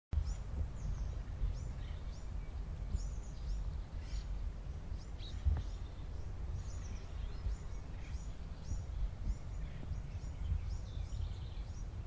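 Small birds chirping: a steady stream of short, high, quickly falling chirps, two or three a second, over a constant low rumble of outdoor background noise.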